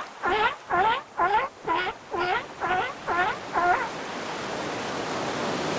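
Seal barking over and over, about two barks a second, stopping about four seconds in. Steady surf-like water noise follows.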